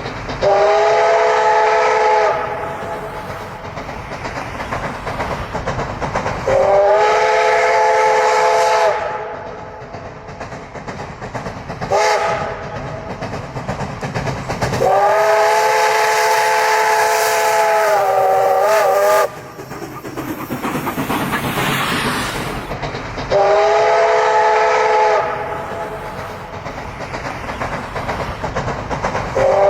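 Steam locomotive whistle sounding a chord of several notes in repeated blasts: several of about two seconds, one brief toot, and one longer blast of about four seconds whose pitch wavers as it ends. Between the blasts the running train is heard as a steady rumble and hiss.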